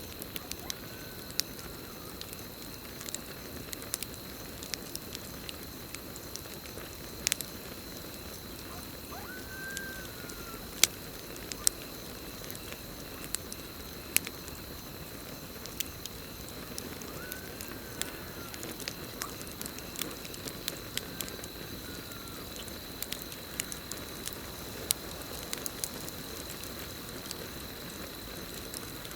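Campfire burning with a steady crackle and frequent sharp pops of burning wood, against a continuous high cricket trill. A few faint, short arching calls from some night animal come every several seconds.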